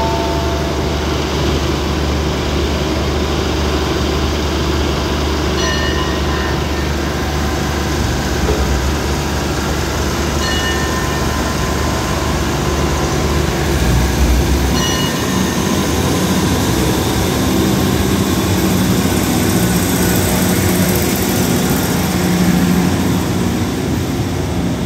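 Diesel multiple-unit train pulling out of a station: its underfloor diesel engines run under load as the carriages roll past on the track. Three short high squeaks come from the wheels, spaced a few seconds apart.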